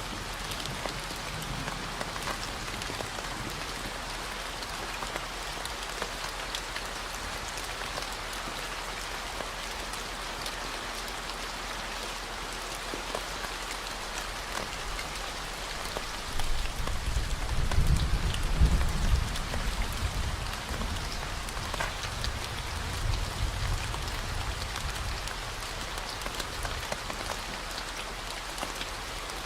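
Steady rain falling on a surface, mixed with a constant low 40 Hz hum. About halfway through, a deep low rumble swells and fades away over several seconds.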